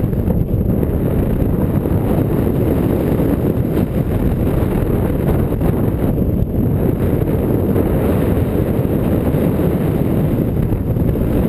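Strong wind buffeting the microphone in flight: a loud, steady low rumble of wind noise.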